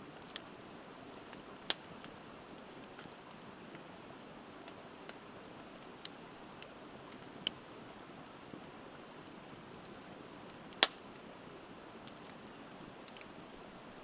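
Wood bonfire crackling, with a few scattered sharp pops, the loudest about eleven seconds in. Under it runs the steady rush of a river.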